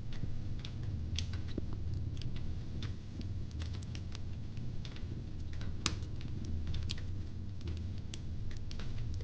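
Fire pit crackling: irregular sharp pops and snaps over a steady low rumble.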